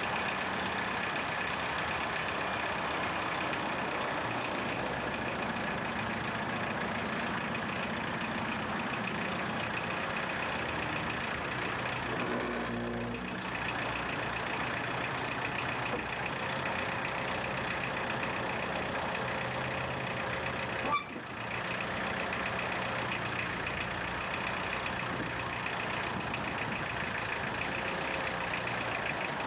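A motor vehicle's engine running steadily, with a constant whine on top. There is a brief dip about 13 seconds in and a single sharp click about 21 seconds in.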